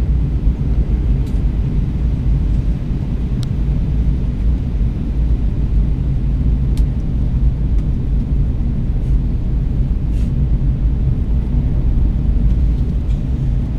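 Steady low rumble of an Airbus A320 cabin in descent: engine and airflow noise, with a few faint ticks over it.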